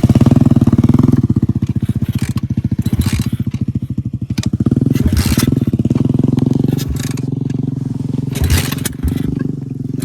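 Pitbike's small single-cylinder engine running at low revs with an even, pulsing beat that steadies after about seven seconds. A few short knocks or bumps are heard in the second half.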